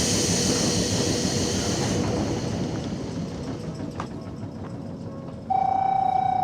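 Sangi Line train running and slowing, its rumble and high hiss easing off. About five and a half seconds in, a steady electronic tone sounds for about a second, as the train comes to a stop.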